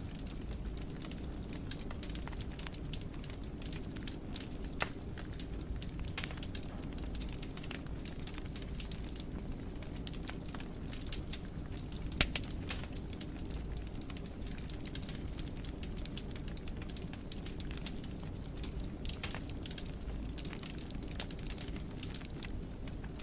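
Wood fire burning in a fireplace: many small pops and crackles over a low steady rumble of the flames, with one sharper pop about halfway through.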